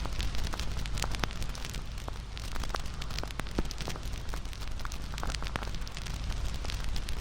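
Wood fire crackling: many irregular sharp pops and snaps over a steady rush of flame with a low rumble.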